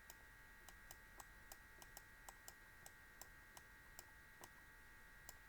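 Faint, fairly even clicks, about three a second, of typing on a computer keyboard over a low steady electrical hum.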